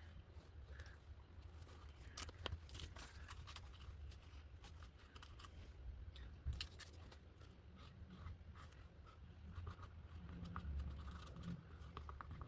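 Faint rustling and scattered small clicks of paper and craft materials being handled.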